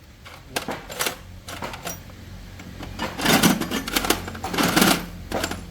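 Metal parts and tools clinking and rattling as they are handled: a few single clicks, then two bursts of clatter about three seconds and four and a half seconds in.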